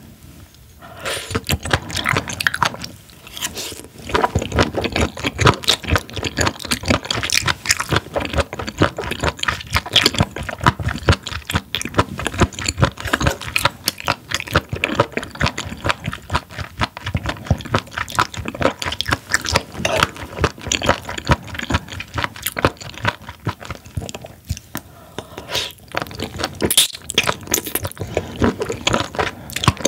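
Close-miked chewing of raw spoon worm: a dense run of crunchy, wet clicks and squishes as the firm, rubbery flesh is bitten and chewed, starting about a second in.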